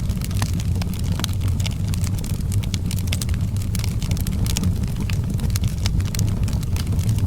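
Outdoor wood fire crackling, with frequent sharp pops and snaps over a steady low rumble.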